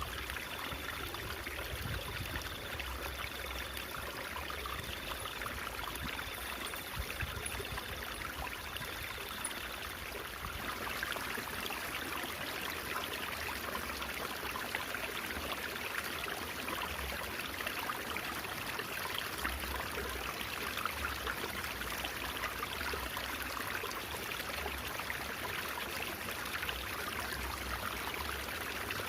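Stream water trickling and babbling steadily.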